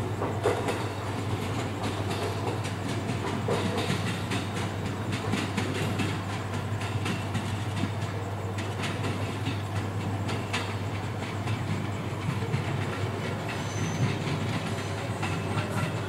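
Local train pulling away through the station's points, its wheels clicking irregularly over the rail joints and switches above a steady low hum. A brief high-pitched squeal comes near the end.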